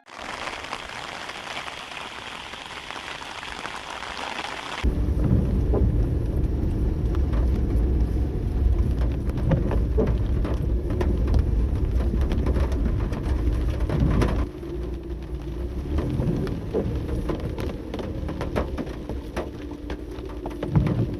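Rain falling with strong wind. First a steady rain hiss; about five seconds in it changes to a loud low rumble of wind with many sharp taps of raindrops hitting a surface.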